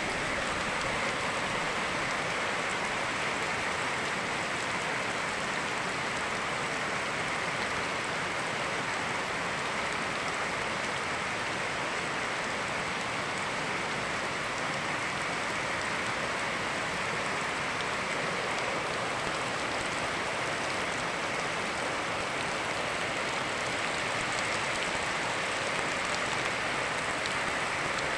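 Steady rain falling, blended with the rushing of a river, as an even, unchanging hiss.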